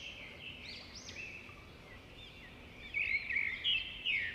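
Small birds chirping, a quick run of short high rising-and-falling notes that grows busier near the end, over faint outdoor background noise.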